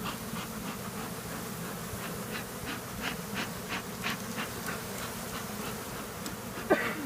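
Honeybees at an opened hive buzzing as a steady low hum, with a scatter of short, faint ticks and rustles over it.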